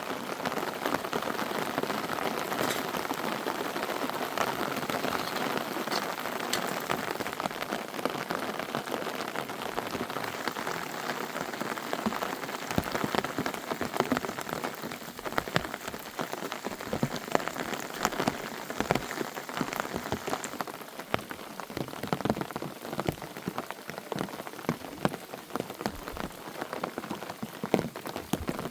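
Steady rain falling, with many separate drops striking close by. In the second half the wash of rain thins a little and the single drop strikes stand out more.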